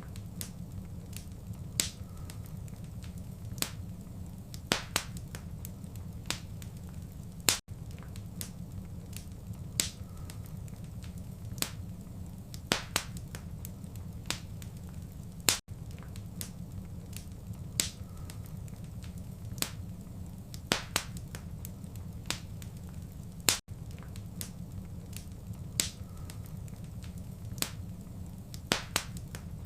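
Fireplace fire crackling: irregular sharp pops and snaps over a steady low rumble. The same stretch of crackling repeats about every eight seconds, with a brief gap where the loop joins.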